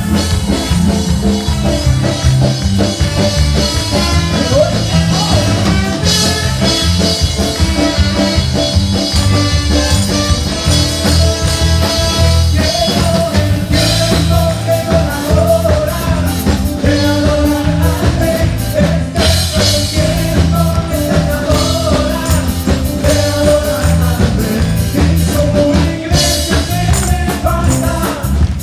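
Live band music with a steady beat: a full band with drum kit and bass playing an upbeat song.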